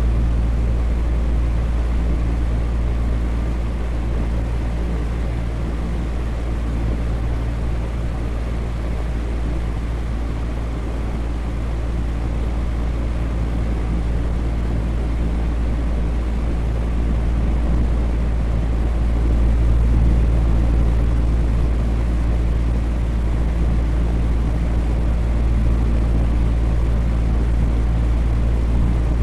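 Electric fan running steadily: a deep, even rush of air with a faint hum underneath, swelling slightly now and then.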